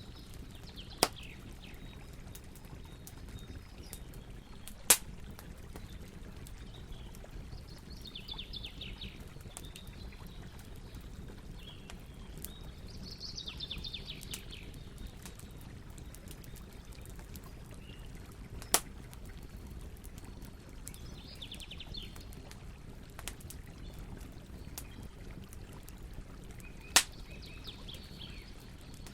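Campfire burning with a steady low rumble and scattered crackles, four of them sharp loud pops. Birds chirp briefly in short trills four times.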